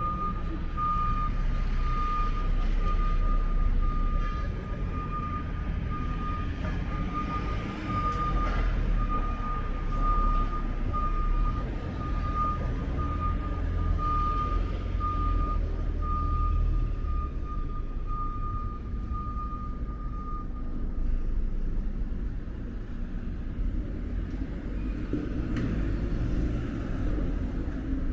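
A vehicle's reversing alarm beeps steadily, about once a second, over a deep engine rumble. The beeping stops about two-thirds of the way through, and the rumble eases off shortly before.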